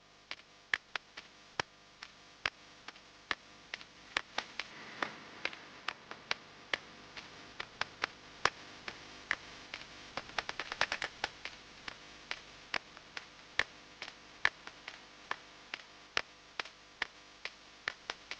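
An irregular series of sharp taps or clicks, about two to four a second, bunching into a quicker run around the middle.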